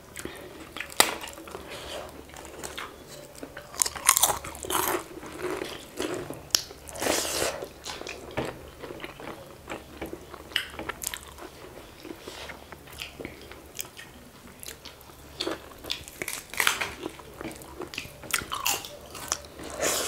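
Close-miked chewing and biting of people eating rice and pork curry, with crunchy bites and irregular wet mouth noises, louder about four seconds in, around seven seconds, and again near the end.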